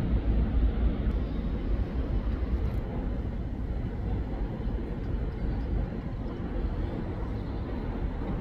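Steady low rumble of a train at the station platform, with no sharp knocks.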